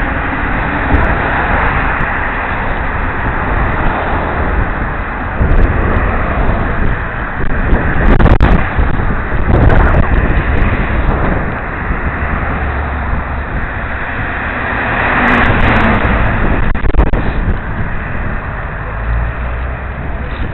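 Wind buffeting the microphone of a helmet-mounted camera on a moving bicycle: a loud rush that swells and eases, with a few sharp clicks.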